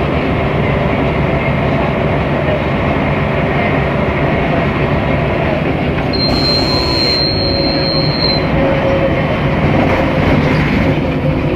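Mercedes-Benz O500MA articulated bus under way: the diesel engine and the running noise of the moving bus make a steady rumble. A high, steady tone sounds about six seconds in and lasts a couple of seconds.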